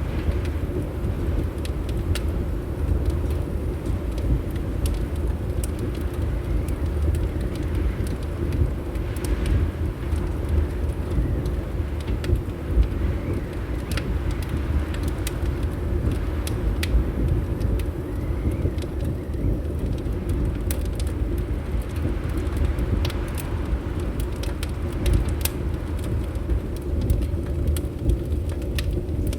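Fireplace crackling, with scattered sharp pops and snaps of burning wood, over a steady low rumble of winter wind.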